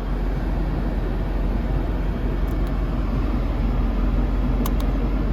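1988 Mercedes-Benz 560SL's 5.6-litre V8 and road noise while the car is under way, a steady low rumble. A couple of light clicks come about halfway through and again near the end.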